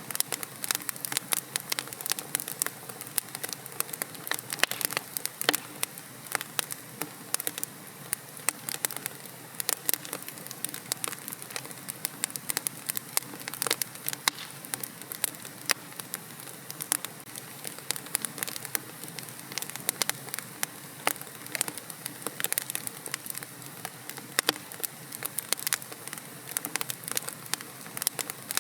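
Wood fire in a fireplace crackling steadily, with many irregular sharp pops and snaps over a soft hiss of burning.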